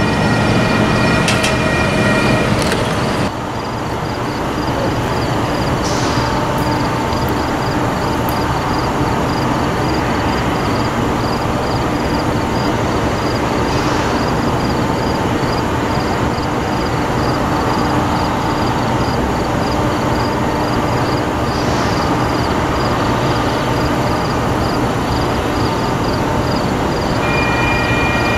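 Train running close by: a steady, loud rumble. There is a held chord of steady tones in the first few seconds and again near the end, and a faint regular tick about twice a second. The sound drops and changes abruptly about three seconds in.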